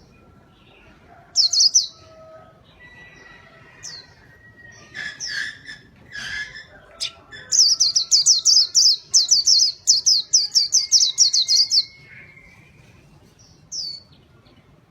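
White-eye (pleci) singing: a few short high chirps, then a loud, fast run of high notes lasting about four seconds from halfway in, with single chirps near the end.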